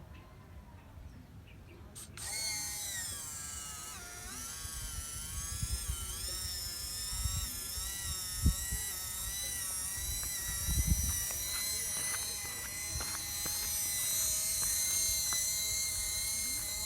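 Electric motor and gearbox of a remote-control construction truck whining, starting about two seconds in, its pitch dipping and rising as it works. A couple of low knocks come partway through.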